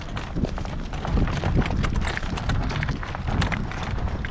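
Horse's hooves striking loose plowed soil in a run of irregular clicks and thuds, with wind rumbling on the microphone.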